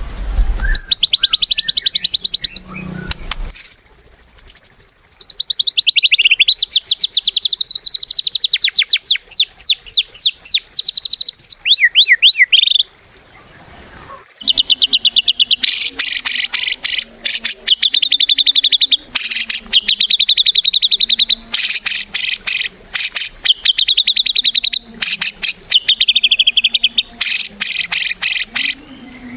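White-rumped shama (murai batu) in full song, pouring out long, fast trills of rapidly repeated high notes, with a short pause near the middle before the runs start again.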